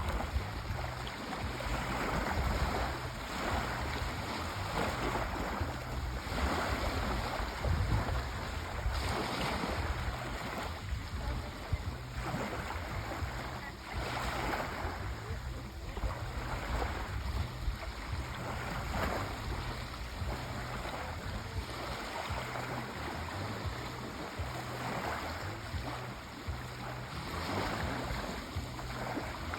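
Sea waves washing in and out in repeated surges, over a deep low rumble of surf.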